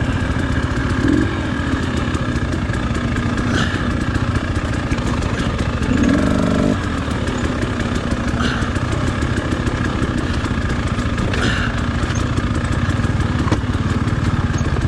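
Off-road dirt bike engine running at low, steady throttle while the bike is ridden over rough, rocky trail. Short high squeaks come three times, about 4, 8.5 and 11.5 seconds in.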